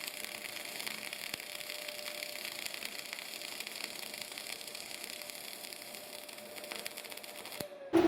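Semi-automatic CO2 arc welding with 1.2 mm flux-cored wire at about 250 A and 28 V: the steady crackling hiss of the arc laying a fillet weld, with a faint steady tone under it. It cuts off suddenly near the end.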